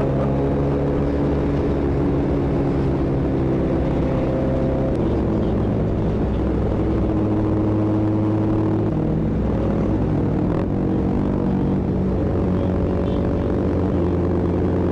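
125 cc mini motorcycle engine running steadily under way, its pitch shifting in steps about five, nine and fourteen seconds in.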